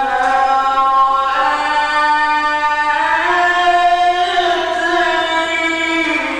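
A male Quran reciter's voice holding one long, drawn-out melismatic note in mujawwad style, the pitch moving up and down in a few sustained steps without a break.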